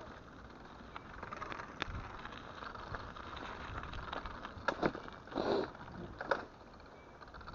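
Mountain bike descending a snowy trail: steady tyre noise with scattered knocks and rattles, and a cluster of louder knocks about five seconds in.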